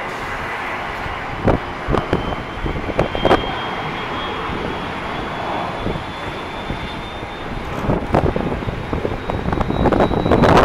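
Aircraft turbine engines running on an airport ramp: a steady broad rumble with a thin high whine that creeps slightly upward. A few sharp knocks come in the first few seconds.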